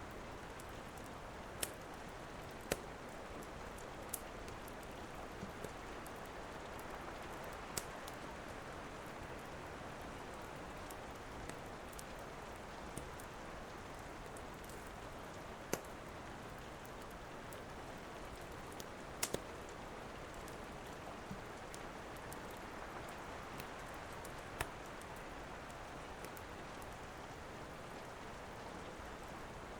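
Steady rain with a wood fire crackling over it: scattered sharp pops every second or few, including a quick double pop a little past the middle.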